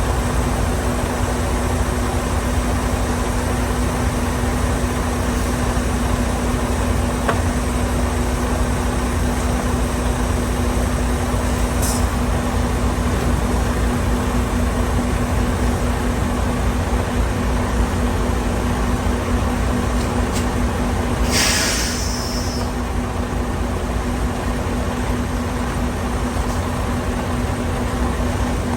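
Semi truck running, heard from inside the cab: a steady low engine drone with a constant hum over a wash of road and wind noise. A short hiss comes about two-thirds of the way through.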